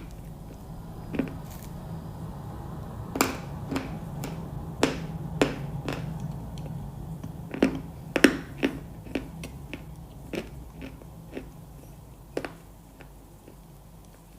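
Close-miked crunchy chewing: irregular sharp crunches and bites, thickest in the middle and thinning out towards the end, over a low steady hum.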